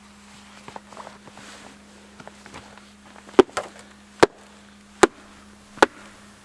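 Soft crunching steps, then four sharp, loud knocks just under a second apart, the strokes of something being struck hard and evenly.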